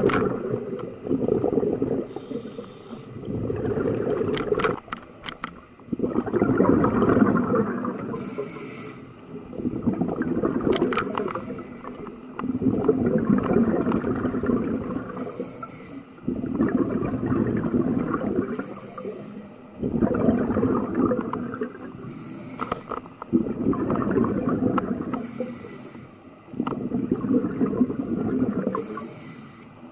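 Scuba diver breathing through a regulator underwater: a short hiss on each inhale, then a longer rush of exhaled bubbles, repeating evenly about every four seconds.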